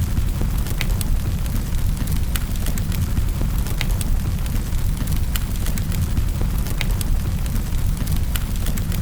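Wood fire burning in a fireplace: a steady low rumble of the flames with frequent sharp, irregular crackles and pops from the burning wood.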